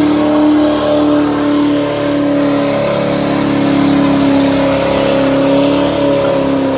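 C4 Corvette's V8 held at high revs during a burnout, the rear tyres spinning in place. A steady high engine note that wavers slightly.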